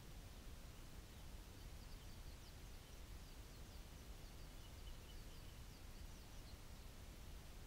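Near silence: faint steady low outdoor rumble, with a distant bird giving a run of short, high chirps through the middle.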